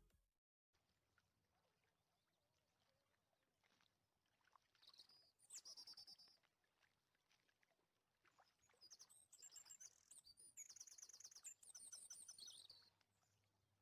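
Faint birdsong: quick, high, repeated chirps, first briefly about five seconds in and then in a longer run near the end.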